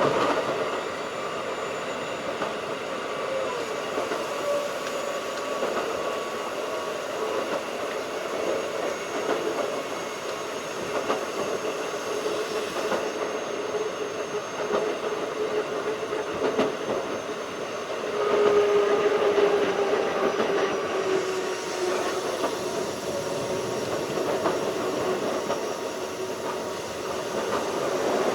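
Keikyu 1500 series field-chopper electric train running: a steady rumble of wheels on rail with a held motor and gear hum that drifts a little in pitch. It grows louder about two-thirds of the way through.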